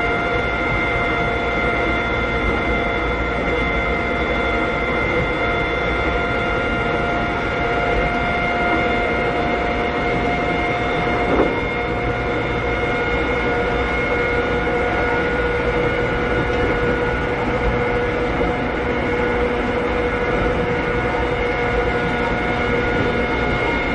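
Cabin running sound of a Keikyu 600 series (2nd generation) electric car at speed: a steady whine from its Toyo Denki electrical equipment over the rumble of the wheels on the rails, with a single knock about 11 seconds in.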